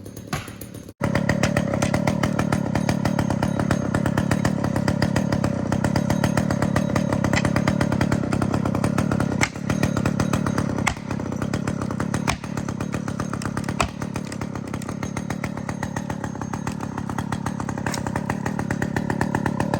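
Two-stroke chainsaw running at high throttle, starting abruptly about a second in, with several brief dips in revs.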